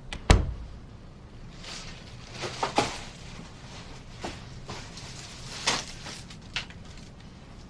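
Handling noises: a sharp knock with a low thud just after the start, then soft rustling and a few scattered light clicks over a low background hum.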